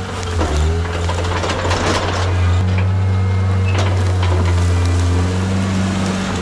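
Skid steer's diesel engine running steadily under work, with several sharp knocks and cracks, a few of them around two seconds in, typical of logs being pushed and loaded.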